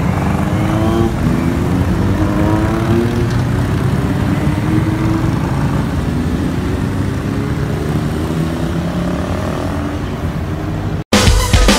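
A vehicle's engine accelerating: its pitch rises, drops back and rises again several times, as it goes up through the gears. About eleven seconds in it cuts off abruptly and loud music starts.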